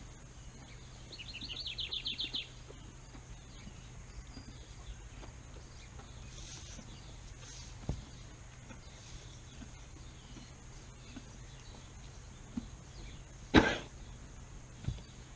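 A songbird sings one short trill of rapidly repeated high notes about a second in. A few light knocks follow, then a loud, sudden thump near the end, over a steady low hum.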